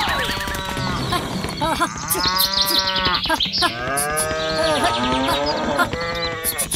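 Cows mooing: about four long calls in a row, each rising and falling in pitch.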